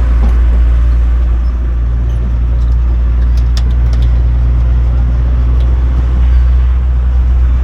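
Steady low rumble of a moving tourist sightseeing train heard from aboard, with scattered small knocks and rattles from the bumpy ride.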